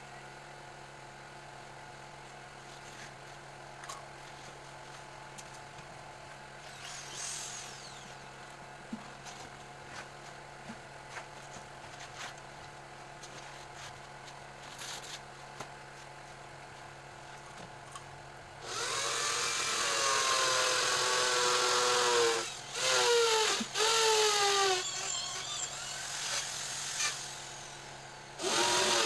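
A quiet steady hum with scattered small clicks, then, about two-thirds of the way in, a hand-held electric power tool starts running loudly. It runs in spurts with short stops, its motor pitch dropping each time it takes load.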